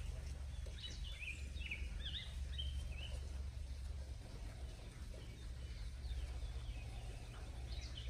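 Small birds chirping in a quick series of short rising and falling notes, most about one to three seconds in and again near the end, over a steady low rumble.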